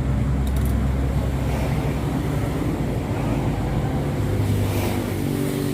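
An engine running steadily, a low continuous hum under a rushing noise.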